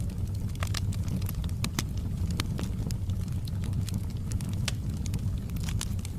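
Wood fire in a fireplace crackling, with irregular sharp pops and snaps from the burning logs over a steady low rumble of the flames.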